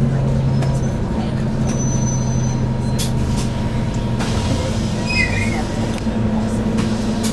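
Scania OC09 9-litre biogas engine of a double-decker bus running with a steady low drone, heard from inside the bus. A couple of sharp clicks or knocks come about three and four seconds in.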